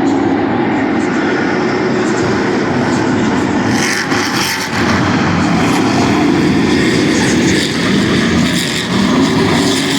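Stadium racing trucks' engines running loud and steady at speed, their pitch wavering as they rev, with a brief lull about four and a half seconds in.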